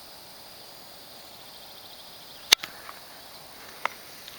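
Faint steady buzz of insects in the open air, with one sharp click about two and a half seconds in and a few lighter ticks after it.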